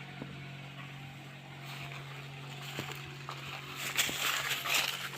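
Diesel engine of a backhoe loader or tractor running at a steady idle, with a louder rush of noise coming in about four seconds in.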